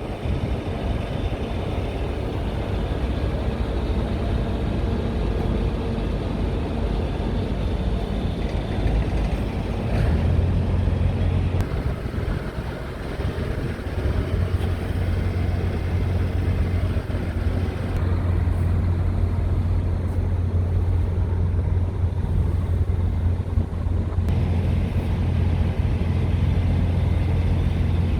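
Scania R tractor unit's diesel engine running, a steady low drone that gets louder and fuller about ten seconds in.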